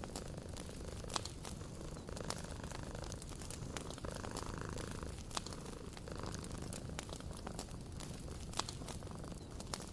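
Wood fire crackling in a fireplace, with irregular sharp pops and snaps, a few of them louder, over a low steady rumble.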